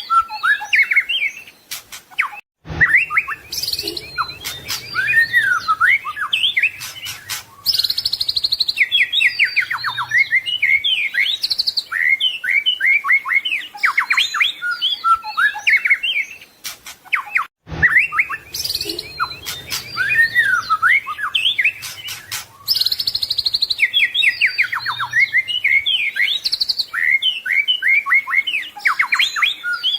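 White-rumped shama (murai batu) singing a fast, varied song of whistles, trills and chirps. The same stretch of song repeats about every fifteen seconds, each time after a brief break.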